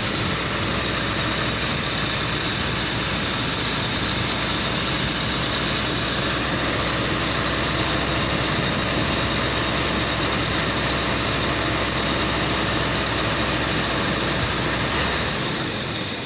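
Jaguar XJ6 Series 3's straight-six engine idling steadily, heard close up with the bonnet open.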